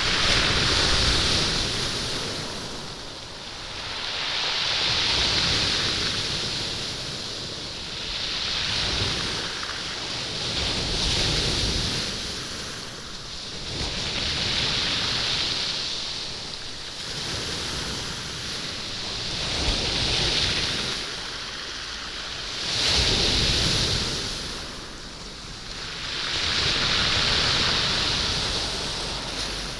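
Sea waves washing up a stone beach, the surf rolling and rattling the stones. It comes in surges that swell and fade every three to four seconds.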